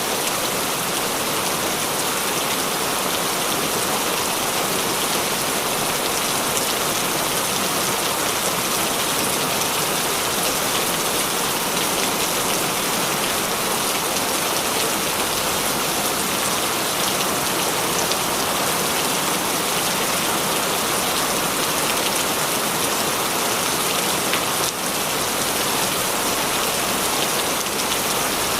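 Heavy rain falling steadily, a dense even hiss full of fine drop ticks.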